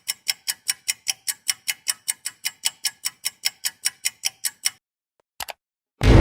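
Clock-style ticking sound effect, fast and even at about five ticks a second, that stops short about three-quarters of the way through. A brief double click follows, and loud music cuts in at the very end.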